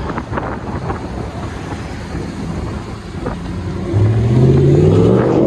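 2016 Ram 1500's 5.7-litre Hemi V8 through a muffler-delete exhaust with the resonator kept, rumbling at low revs. About four seconds in, the engine is revved or pulls away and gets louder, its pitch rising steadily.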